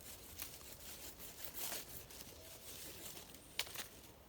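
Wooden sticks being handled and cut with a knife: faint scraping and rustling, with one sharp click about three and a half seconds in.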